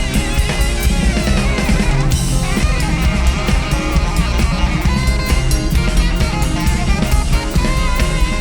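A six-piece rock band playing live through an instrumental stretch with no vocals, the drum kit's kick and snare to the fore over pitched guitar or keyboard lines.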